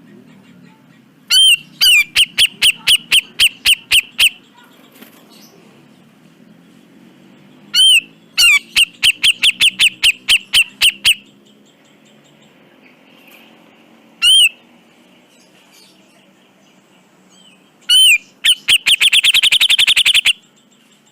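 Cucak jenggot (grey-cheeked bulbul) calling in four loud bouts: each opens with one arched note and runs into a quick series of sharp, evenly repeated notes. The last bout, near the end, is the fastest, almost a rattle, and one bout in the middle is a single note.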